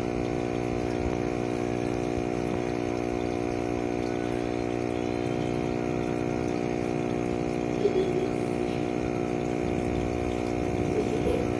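A steady mechanical hum holding one constant pitch, like a small motor running.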